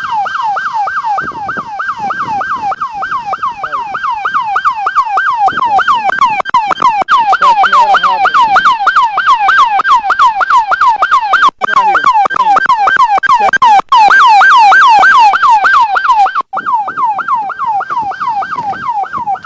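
Police patrol car siren sounding in a fast yelp, its pitch sweeping up and down about three times a second and very loud. It cuts off abruptly at the end.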